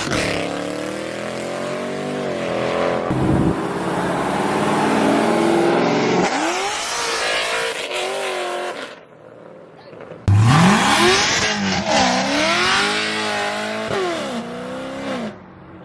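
Performance car engines revving and accelerating hard, pitch climbing and falling through the gears, over a broad roar of exhaust and tire noise. Partway through, the sound drops off, then another car revs up steeply and pulls away.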